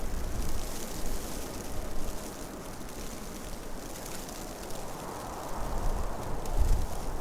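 Blizzard wind blowing in gusts, a steady hiss over low rumbles of wind buffeting the microphone that swell twice. The hiss cuts off abruptly at the end.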